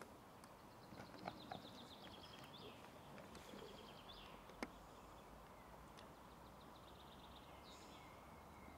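Near-quiet forest with a songbird singing a short trilled phrase three times, each run of notes falling slightly and ending in a quick flourish. A couple of faint sharp clicks come in between.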